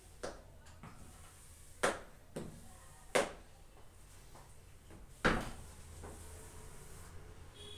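Five sharp knocks or taps at uneven intervals, the loudest about five seconds in with a short ringing tail.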